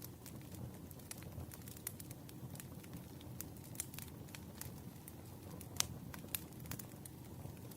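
Campfire sound: a wood fire crackling, with scattered sharp pops over a steady low rumble of flame. The loudest pop comes a little after the middle.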